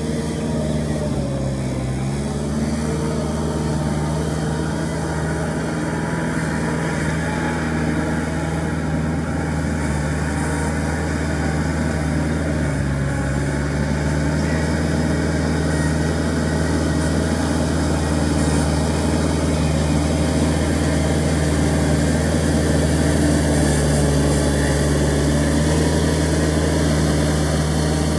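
Kubota L3408 tractor's diesel engine running steadily under load while puddling with a rotavator. The engine note sags briefly about two seconds in and again about halfway through, then recovers.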